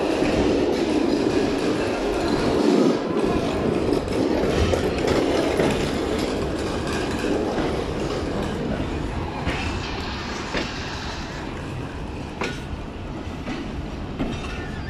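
Passenger train pulling slowly out of a station, heard from the carriage doorway: a steady rumble of the coach's wheels on the track, with a few sharp clicks in the second half.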